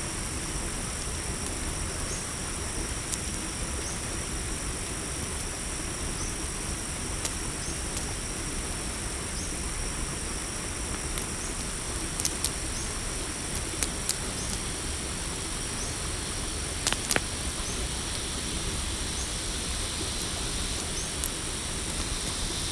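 Night-forest ambience: crickets trill steadily, with a soft chirp repeating about once a second, over the hiss of a campfire that gives a few sharp crackling pops, mostly in the second half.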